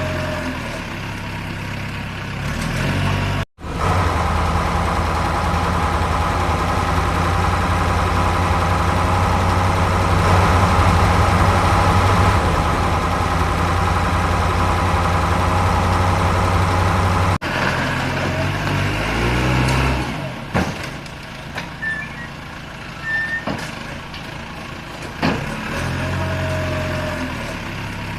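Truck and construction-vehicle engine sounds, running and idling steadily, with sudden cuts about three and a half and seventeen seconds in.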